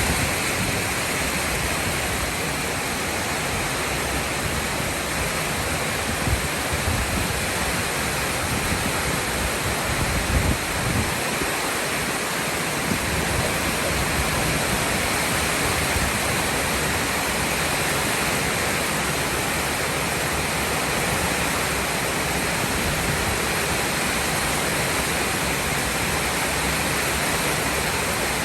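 Heavy rain falling steadily, a dense even hiss, with a few low rumbles near the middle.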